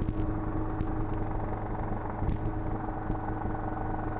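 Schweizer 300C helicopter's four-cylinder piston engine and rotors running steadily, heard inside the cabin, with a few faint clicks.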